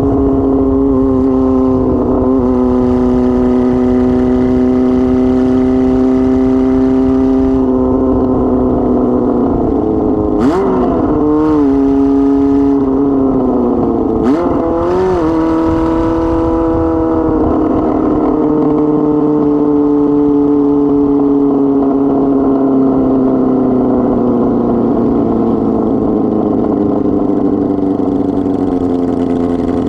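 1999 Kawasaki ZR-7's air-cooled inline-four running with no exhaust muffler, under way at steady revs. Twice, about ten and fourteen seconds in, there is a sharp click and the pitch dips and swings back up. In the second half the revs slowly fall.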